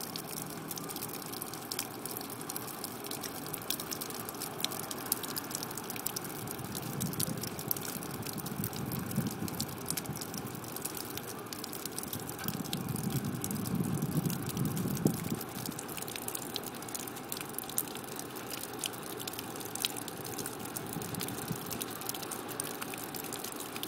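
Steady rain falling during a thunderstorm, with many small drop ticks over an even hiss. A low rumble swells twice in the middle.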